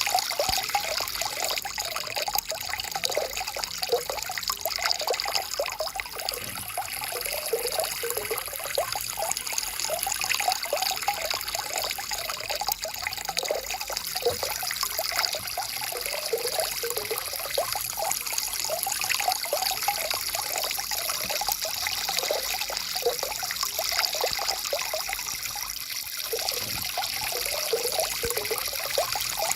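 Small forest stream trickling and bubbling steadily over rocks.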